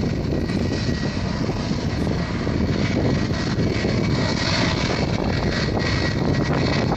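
Boeing 757-300 jet engines running steadily, a continuous rush of noise with a faint steady whine.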